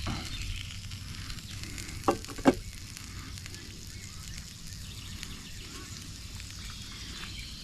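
Bacon, onions and sausages sizzling steadily in a hot cast-iron Rome Dog'n Brat Cooker pie iron, with a fine crackle. Two sharp clicks about two seconds in, half a second apart.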